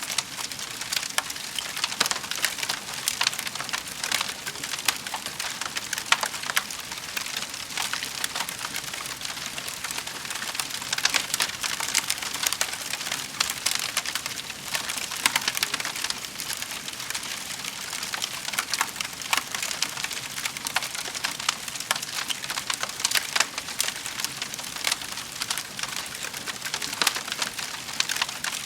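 Wood fire crackling steadily in a fireplace: a dense, continuous stream of small pops and snaps over a soft hiss.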